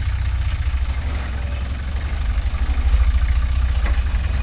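Four-wheel-drive truck engine running at low revs while rock crawling, a steady low rumble that gets a little louder about three seconds in.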